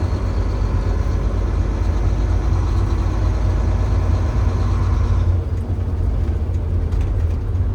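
Tractor-trailer's diesel engine and road noise heard from inside the cab while driving, a steady low rumble. The higher noise above it drops away about five seconds in.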